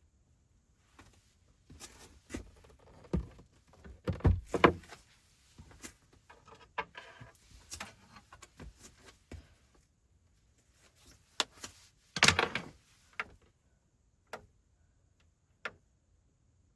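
Irregular series of knocks, thuds and clicks, with a loud cluster about four seconds in and another about twelve seconds in.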